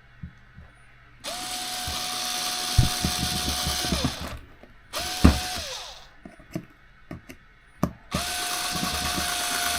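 Electric screwdriver driving small screws into an RC car chassis, its motor whining steadily in three runs: a long one from about a second in, a short one around the middle, and another near the end. Sharp knocks and clicks break in during the runs, and the bit is slipping in the screw heads, which the builder puts down to a worn bit or poor-quality screws.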